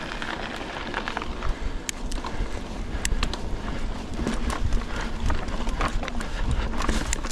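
Hardtail mountain bike riding a rough dirt trail: tyres rolling over the ground and frequent sharp clicks and rattles from the bike, with wind rumbling on the microphone.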